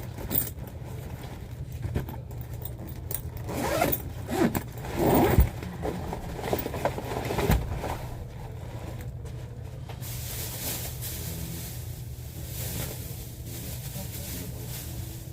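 Rustling, zipper-like scraping and clicking handling noise close to the microphone over a steady low rumble, busiest a few seconds in; from about ten seconds in a steady hiss joins.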